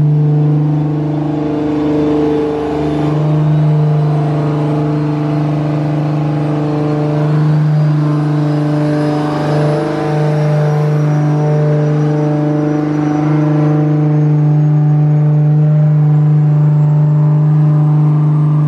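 Big-turbo 2JZ straight-six engine running at a steady raised rpm, its note holding one pitch with small dips in level. A faint high whine rises slowly throughout.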